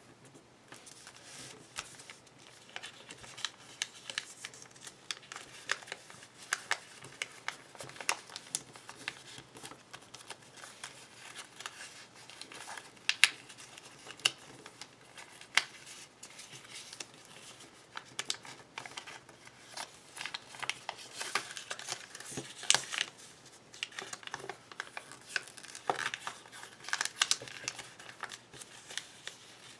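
A sheet of origami paper being folded and creased by hand: irregular crinkling and sharp, crisp creasing clicks, busiest in the last third.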